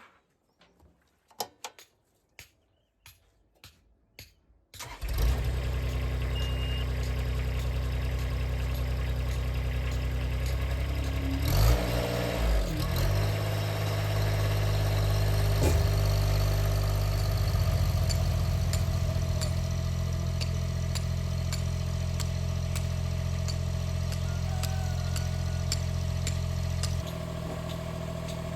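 A few scattered knocks, then an engine starts about five seconds in and settles into steady running, with a brief unsteady patch partway through and a small drop in level near the end.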